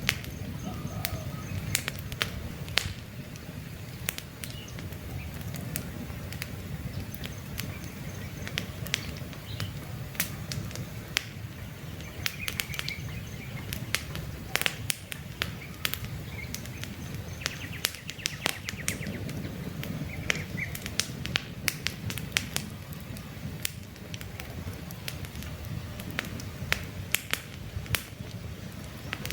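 Campfire crackling: frequent sharp pops and snaps over a low, steady rumble of burning wood, with a few faint bird chirps now and then.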